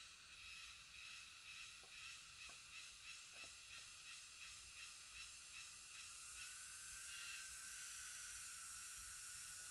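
Faint chorus of forest insects. A high buzzing pulses about one and a half times a second, then settles into a steady drone with a held whine about six seconds in.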